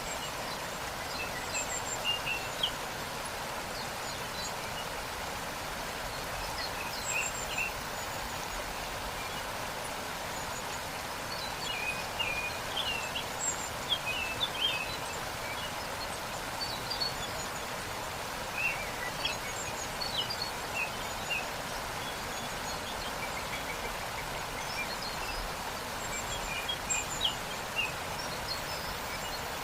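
Waterfall rushing steadily, with small birds chirping in short, high calls scattered over it, in several bunches.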